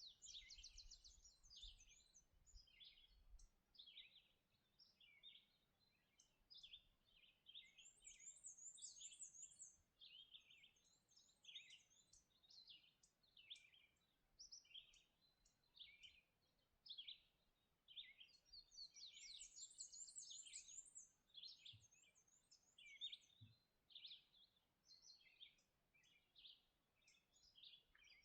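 Several songbirds singing and calling at once, faint, in a dense run of short chirps and phrases, with a high, rapid trill twice: about eight seconds in and again near twenty seconds.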